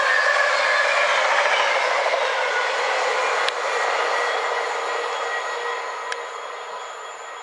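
Freight train wagons rolling past on the rails, a steady rumble and rush with faint wheel squeal, fading away as the train recedes. Two sharp clicks sound partway through, about two and a half seconds apart.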